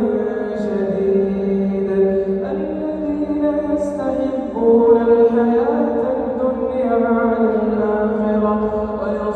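A man's voice reciting the Quran in the melodic tajwid style. He sustains long, drawn-out vowels that step from note to note, with only a few short consonants between them.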